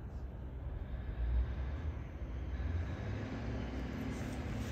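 Low rumble of a train approaching the level crossing, growing brighter over the last couple of seconds as higher sounds come in.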